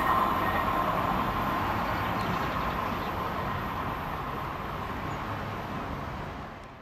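Trenord regional passenger train rolling away through a tight curve, its rumble slowly fading. A high wheel squeal on the curve is strongest in the first second and dies away, and the sound fades out completely at the end.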